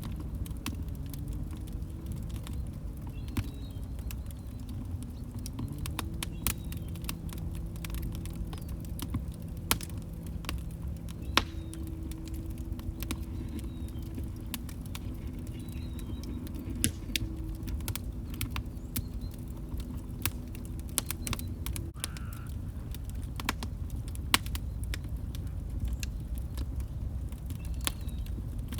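Wood fire crackling, with irregular sharp pops and snaps over a steady low rumble of the flames. A faint low wavering tone runs underneath until about two-thirds of the way through.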